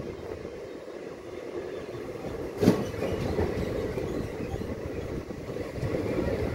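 Express train coaches running on the rails as the train pulls out, heard from an open coach doorway: a steady rumbling clatter of wheels on track, with one sharp clank about two and a half seconds in.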